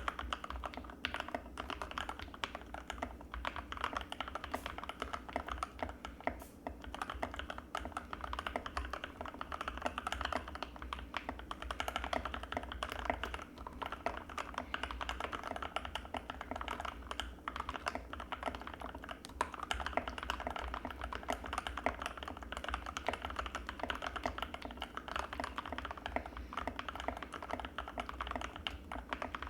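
Fast, continuous typing on an Anne Pro 2 60% mechanical keyboard with linear Gateron Red switches, a steady stream of closely spaced keystrokes without pauses.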